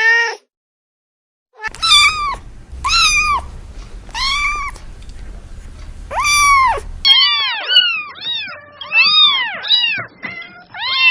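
Kittens mewing: one short mew, a pause, then four high mews about a second apart over a low hum. From about seven seconds in, several kittens mew rapidly over one another.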